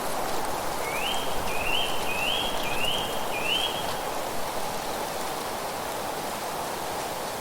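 A songbird calls a quick series of five short notes, each rising in pitch, over a steady rushing of wind through leaves.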